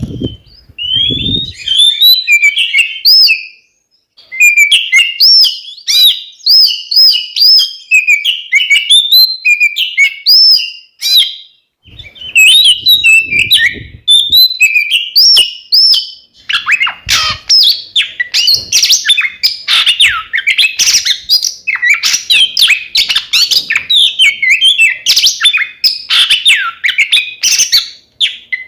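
Two oriental magpie-robins singing: a loud, fast, varied stream of chirps, whistles and rasping phrases that breaks off briefly twice, about four and twelve seconds in.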